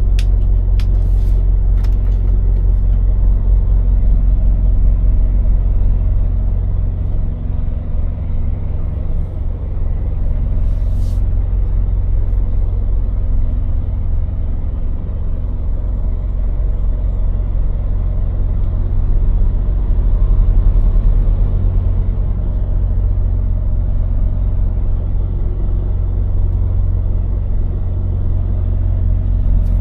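Scania lorry's diesel engine running with a steady low drone, with a few clicks in the first couple of seconds and a brief hiss about eleven seconds in.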